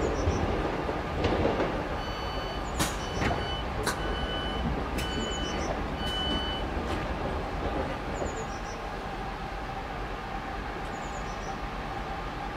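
Class 323 electric multiple unit running over the junction pointwork and pulling away, its wheels knocking sharply over the rail joints and crossings. A run of short, steady high tones sounds from about 2 to 7 seconds in, and the rumble fades as the train recedes.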